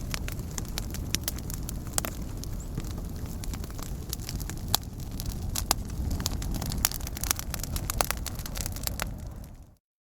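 Burning wood crackling and popping irregularly over a low steady rumble. The fire fades out near the end and drops to a brief moment of silence.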